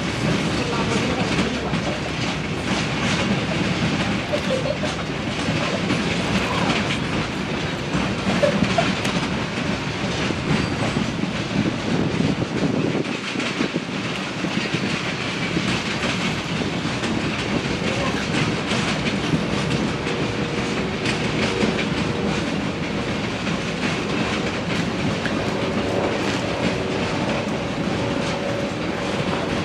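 Train rolling past on the track, its steel wheels clicking steadily over the rail joints.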